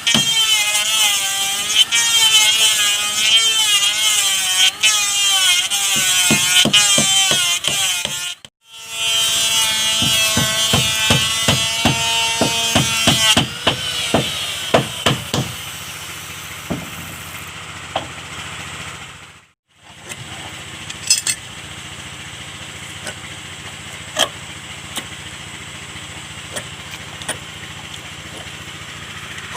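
Woodworking on a wooden boat hull: a power tool runs with its pitch rising and falling under load, among many sharp knocks on wood. After two abrupt cuts it gives way to a quieter steady background with scattered taps.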